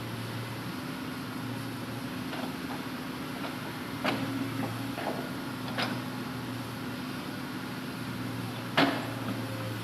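Hitachi Zaxis 200-5G excavator's diesel engine running steadily, with three sharp knocks. The loudest knock comes near the end.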